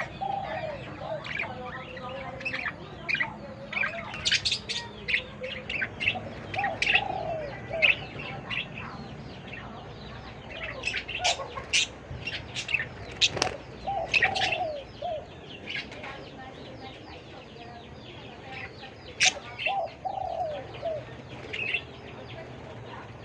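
Budgerigars chirping and chattering: many quick, short calls with some lower warbling notes mixed in.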